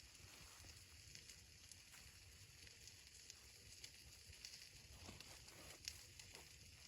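Near silence: faint hiss with a few scattered faint ticks.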